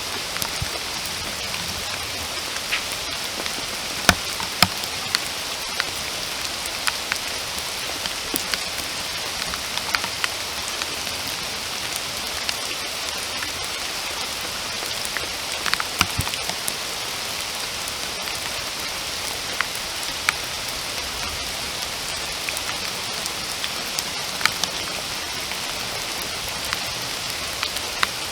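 Steady rain falling in a forest, an even hiss with many separate drops tapping close by at irregular moments.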